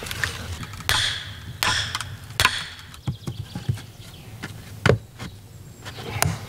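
A tool striking wood: a series of sharp, irregular knocks, roughly one every half second to a second.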